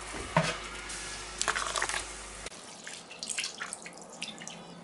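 Water running or pouring, with a few light knocks, until about halfway through; after that, quieter scattered clinks.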